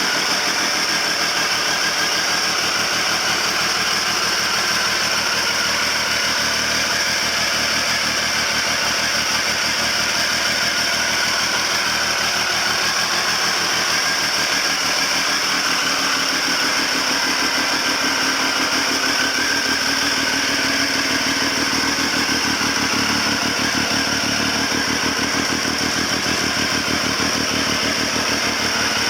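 Triumph Speed Triple 955i's three-cylinder engine idling steadily while warming up.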